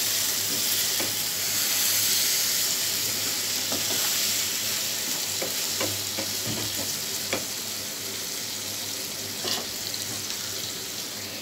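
Brinjal pieces sizzling in spiced oil in a nonstick pan while a wooden spatula stirs them, with light scrapes and taps against the pan. This is the sautéing stage, the brinjal coated in masala. The sizzle slowly dies down toward the end.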